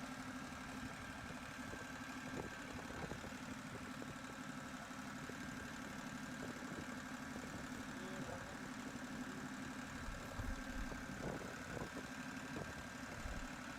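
Tractor engine running steadily at a low, even idle-like pace, with a couple of faint knocks late on.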